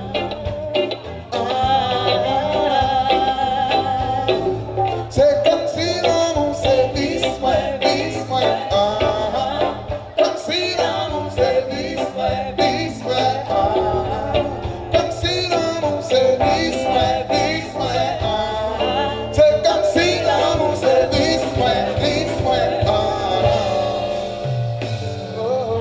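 Live band music with a lead vocal singing over a steady bass line and regular drum hits.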